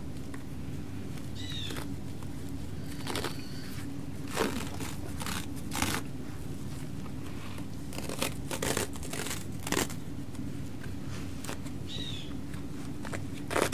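Wing dressing materials being handled, crinkling and tearing in scattered short bursts over a steady low room hum, with two brief high squeaks, one a second or two in and one near the end.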